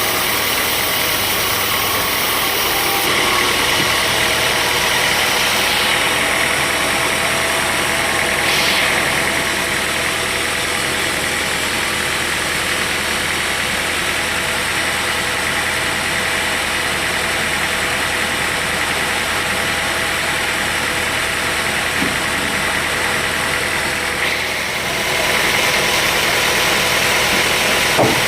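Sawmill machinery running steadily: an engine's even hum with a higher hiss on top, and a brief swell about eight seconds in.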